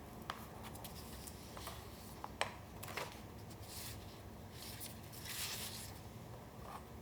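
Paper being handled in collage-making: a few light taps and clicks, then longer rustling swishes of paper sliding or crinkling, the longest a little past the middle.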